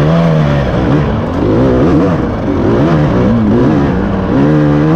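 Dirt bike engine being ridden hard, its revs rising and falling over and over as the rider throttles on and off through corners.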